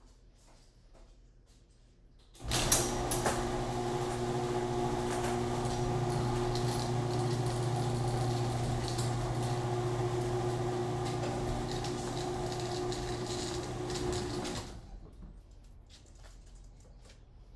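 Electric garage door opener running as the door opens, starting with a clunk about two and a half seconds in and running steadily for about twelve seconds before it stops.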